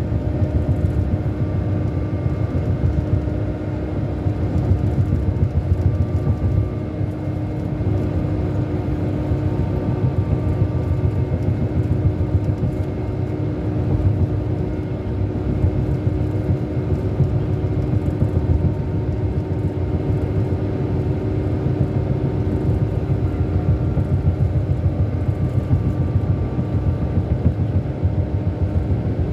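Scania K400 Euro 5 coach's 13-litre straight-six diesel running steadily at an even engine speed: a continuous low rumble with a constant hum above it.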